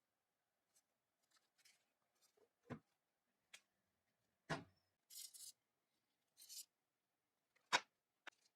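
Sparse clicks and knocks of small parts or tools being handled on a bench, the loudest knock coming near the end, with two short scraping sounds in the middle.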